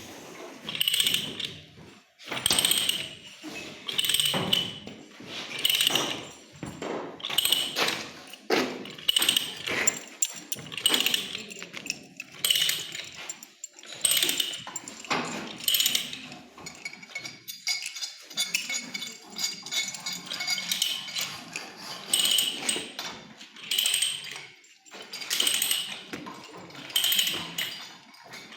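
A hand tool working metal pipe in steady repeated scraping strokes, about one a second, with a stretch of thin metallic ringing a few seconds past the middle.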